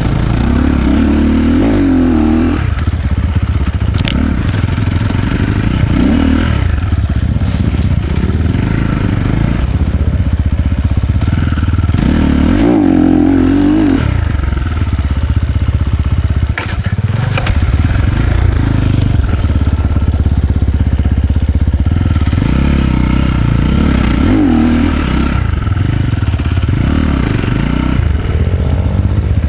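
Enduro dirt bike's single-cylinder engine running hard on a trail, the revs rising and falling again and again as the rider works the throttle. A few sharp knocks and clatter come from the bike over rough ground.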